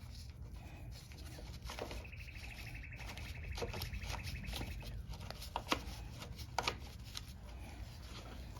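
A bird's trill, a rapid string of high notes lasting about three seconds, with scattered clicks and knocks of parts being handled, two sharper knocks past the middle.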